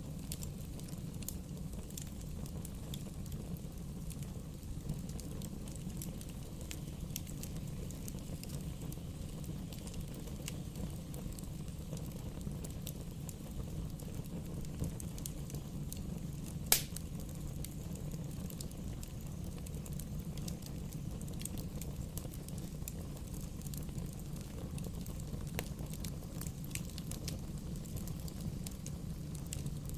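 Bonfire burning: a steady low rumble of flames with scattered small snaps and crackles, and one sharp loud pop about halfway through.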